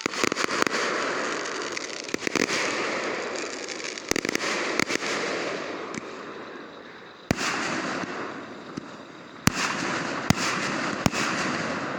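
Aerial fireworks going off: a run of sharp bangs at irregular intervals, several of them followed by a long crackling fizz of the bursting shells that slowly fades.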